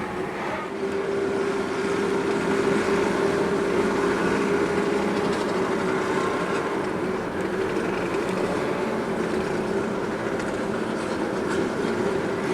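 Bosozoku motorcycle engines running hard in a group, a loud, steady droning note held at high revs.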